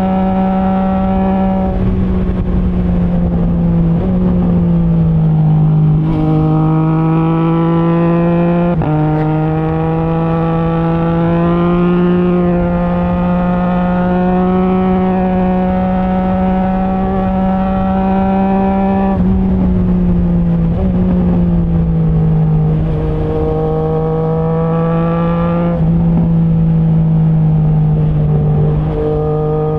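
Triumph Trident 660's inline three-cylinder engine running at steady revs through a straight-through Zard stainless exhaust with the baffle removed. The pitch drops suddenly several times, at quickshifter gear changes, and creeps up slowly in between.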